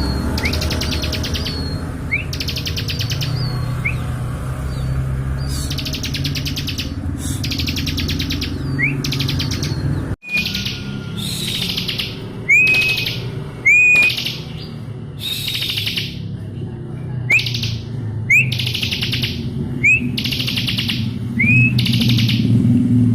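Bar-winged prinia (ciblek) singing: repeated loud bursts of rapid high trilling, each about a second long, with quick rising notes between them. The song is broken by a sudden brief dropout about ten seconds in, over a steady low hum.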